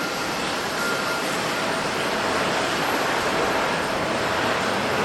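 Jet engine noise of a landing Boeing 737-800's CFM56 turbofans, a steady dense rush that grows slightly louder about a second in.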